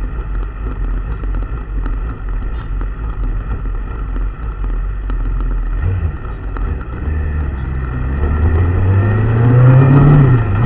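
Motor vehicle engine running with a low rumble, then rising in pitch and loudness from about two-thirds of the way in, peaking near the end and falling away.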